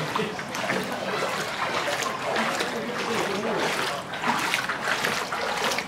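Floodwater splashing and trickling, a continuous noisy wash with irregular splashes.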